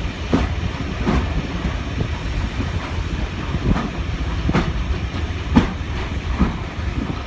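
Train running along the track: a steady low rumble with irregular clicks and knocks as the wheels pass over rail joints, a few a second at most, the loudest about five and a half seconds in.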